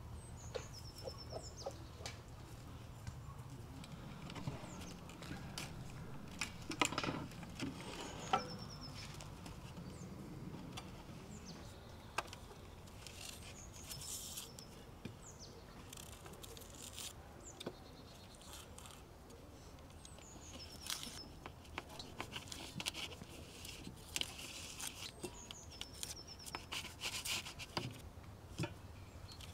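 Small birds chirping and chickens clucking in the open air, with scattered light taps and scrapes of a plastic dough scraper cutting dough on a metal tray; the two loudest knocks come about seven and eight seconds in.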